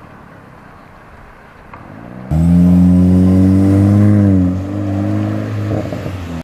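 Skoda Octavia vRS's turbocharged 2.0 TFSI four-cylinder, fitted with a 3-inch decat downpipe and custom exhaust, is faint at first, then its loud exhaust note under acceleration cuts in about two seconds in, climbing slowly and dropping about two seconds later.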